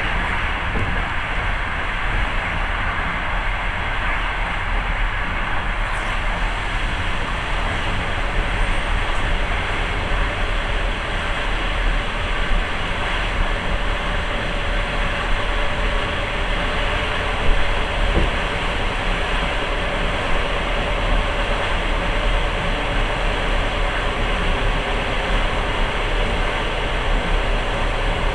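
Passenger train running on the rails, heard from inside the carriage: a steady rumble and rattle of wheels and car body, with an occasional faint click. A faint steady hum joins in about halfway.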